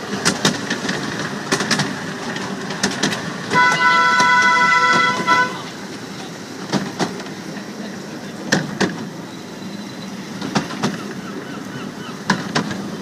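Train horn sounding one steady chord for about two seconds, a few seconds in, over the rumble of a moving train and scattered sharp knocks.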